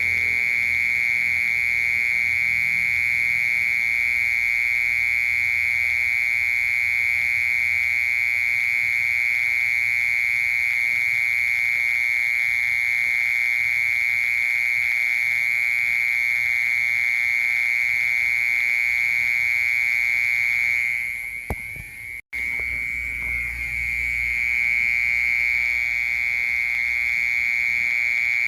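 Mole cricket singing a continuous, steady, high buzzing trill. Near the last quarter it briefly drops out and wavers, then resumes.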